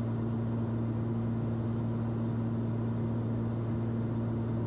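Steady drone of a Cessna 340's twin turbocharged piston engines and propellers heard inside the cockpit in flight: an unchanging low hum with a constant tone.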